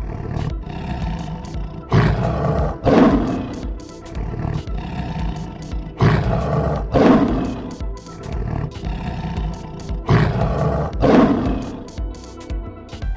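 A lion roaring in three bouts of two roars each, about four seconds apart, over background music.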